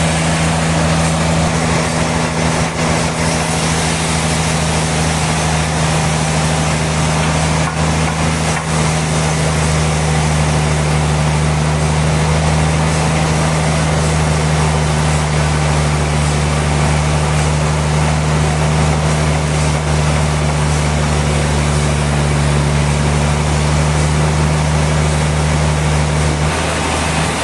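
Sawmill machinery running steadily: a loud, unchanging engine-like drone.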